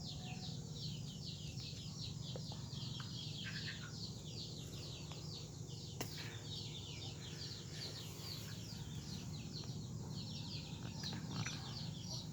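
Rapid high chirping, about four to five short falling chirps a second, keeps going over a steady low hum, plausibly the refrigerator's compressor running after the repair.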